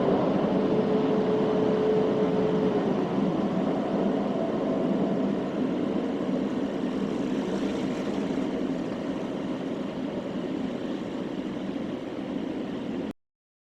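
Automatic car wash machinery running: a steady rushing noise with a hum that slides down and fades about three seconds in. The noise slowly grows quieter, then cuts off abruptly near the end.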